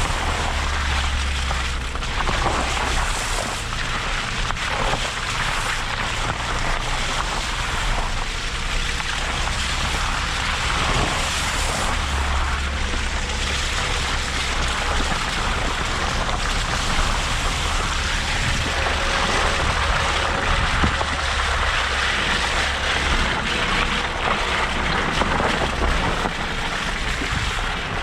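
A 2013 Suzuki Jimny's 1.3-litre inline-four running steadily while driving off road. A low rumble sits under a constant rushing noise of wind and tyres on the rough track.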